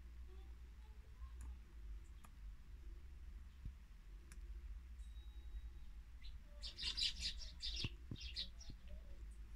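A small songbird calling in a quick run of high chirps for about two seconds, starting about seven seconds in. Faint scattered clicks come before it.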